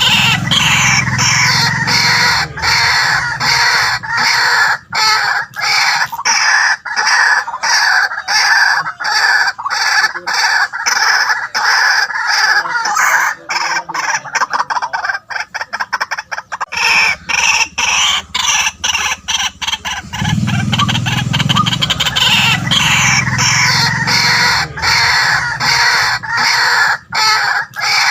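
White-breasted waterhens calling: a loud, continuous run of rapid, repeated harsh notes, a deeper note joining in at the start and again about two-thirds of the way through.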